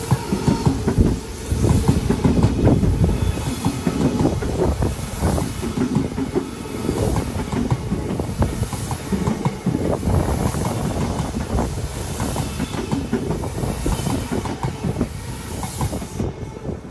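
Odakyu 4000 series electric commuter train passing close by: a steady rumble with wheels clattering over the rail joints. The sound drops away near the end as the last car clears.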